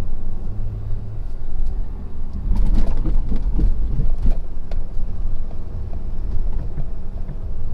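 A Ford F-250's Power Stroke diesel V8 running under load as heard from inside the cab, with a louder, rougher stretch and a few knocks about two and a half to four and a half seconds in.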